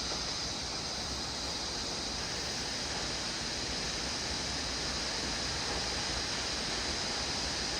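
Steady rushing of a waterfall running full with water.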